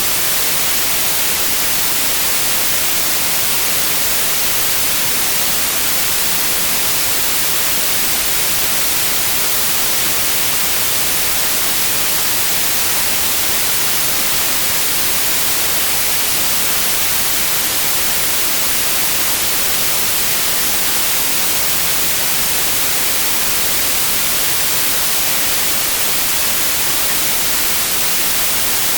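Steady white noise, an even hiss across all pitches with no change or events.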